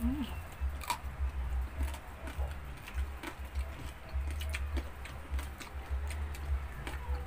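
Close-up eating sounds: chewing and crunching of crispy pata, the deep-fried pork knuckle, with fingers working rice on a banana leaf. Small crunches and clicks keep coming irregularly over a low rumble.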